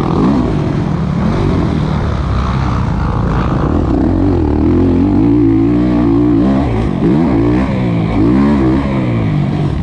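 Kawasaki KX450 motocross bike's single-cylinder four-stroke engine, revving up and down under changing throttle: it holds high in the middle, then dips and climbs again twice near the end.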